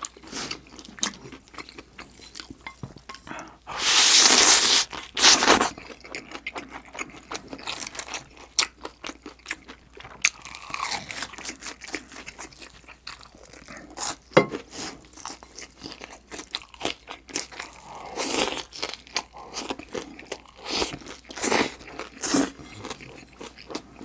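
Close-miked eating of spicy jjolmyeon noodles and green onion kimchi: wet chewing with crunching all through, broken by a few loud breathy sucking sounds, the longest about four seconds in.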